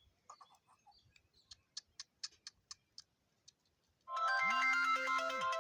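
Faint short chirps and a quick run of sharp clicks, about four a second. About four seconds in, a loud electronic ringtone-like melody of stepped beeping notes starts.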